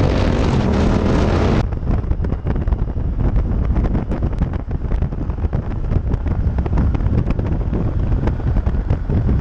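Motorcycle engine running while riding; about a second and a half in, an abrupt cut to heavy wind buffeting on the rider's microphone over a low engine rumble.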